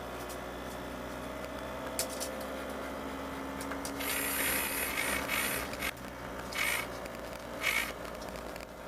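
Motorhome running, heard from inside the cab as a steady hum. A louder stretch of hissing and rattling comes about four seconds in, followed by two short bursts of hiss.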